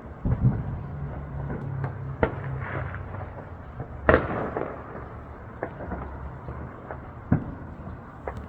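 Fireworks going off: a string of sharp bangs, about four loud ones and several fainter pops, with the loudest about four seconds in, over a low steady rumble.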